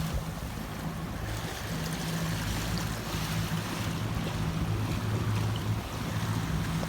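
Motorboat under way at a steady speed: a steady engine hum under the rush of water past the hull.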